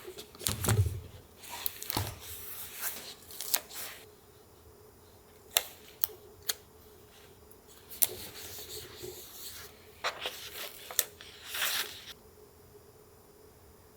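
Paper collage work: paper being handled, rubbed and torn, with scattered sharp clicks and short crinkling rustles and a few brief pauses.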